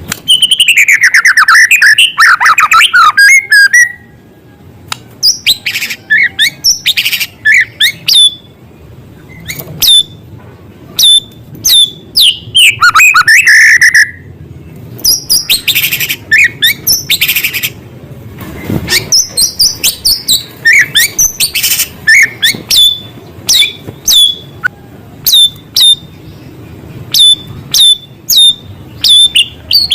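White-rumped shama singing loudly and without pause, a varied song of fast trills, descending whistled sweeps, harsh rasping notes and runs of short sharp chips, with mimicked calls of small birds worked in.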